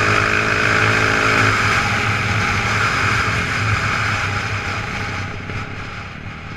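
Off-road motorcycle engine running under way, with heavy rushing wind and road noise over it. The steady engine note breaks up about a second and a half in, and the sound eases off and fades toward the end.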